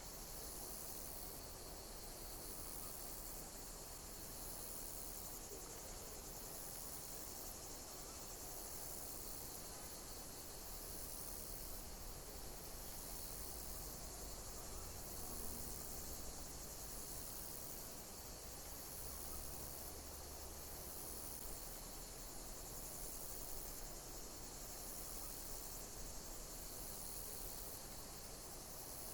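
Insects chirping: short, high-pitched chirps repeat about once a second over a steady high hiss of insect song.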